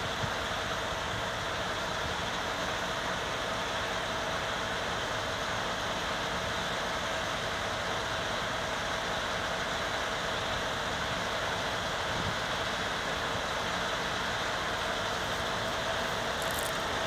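An engine running steadily at idle, an even mechanical drone with a constant hum.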